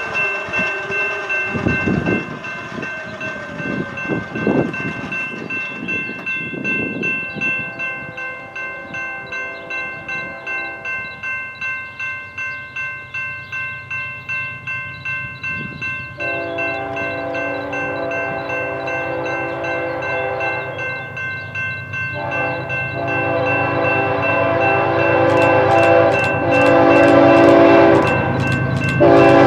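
Diesel freight locomotive horn sounding a series of long chord blasts with short breaks between them, growing louder as the train approaches. Knocking of railcar wheels comes in the first few seconds.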